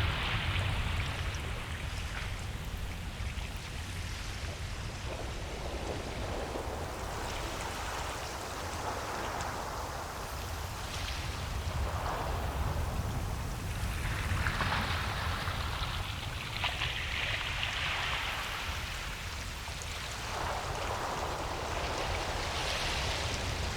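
Ocean waves washing onto a beach: hissing surges of surf every few seconds over a steady low rumble.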